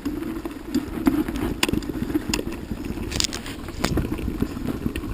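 An engine running at idle, a steady low hum, with scattered clicks and rattles over it.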